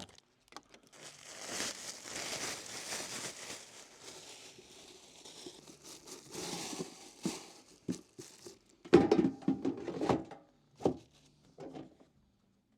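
Plastic packaging crinkling and rustling as it is handled and pulled open, followed by a few sharp knocks and thuds about nine to eleven seconds in.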